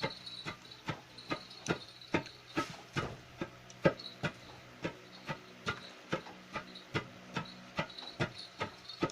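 Rice being pounded in a wooden lesung mortar: a wooden pestle knocking in an even rhythm, about two to three strikes a second.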